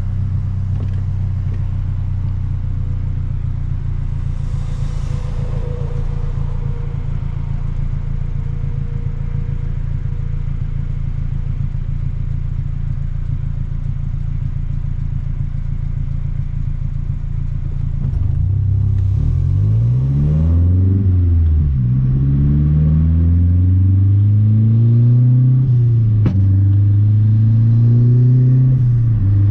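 2012 Mazdaspeed 3's turbocharged 2.3-litre four-cylinder running at a steady note, then, about eighteen seconds in, accelerating hard through the gears: the engine pitch climbs and drops back at each upshift, about four times.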